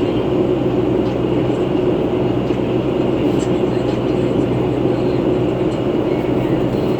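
Inside a 2011 New Flyer C40LF transit bus riding along: a steady drone of engine and fan noise with a constant low hum and a higher whir, the fan sound the rider finds unusual.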